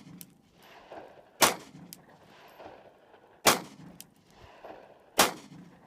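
Glock 19 Gen4 9mm pistol fired one-handed with the weak hand, slow deliberate fire: three shots about two seconds apart.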